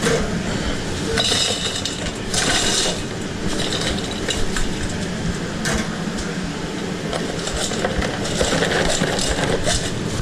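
Food-truck kitchen work noise: a steady hum with scattered clinks and clatter, and two short hissing bursts about one and two and a half seconds in.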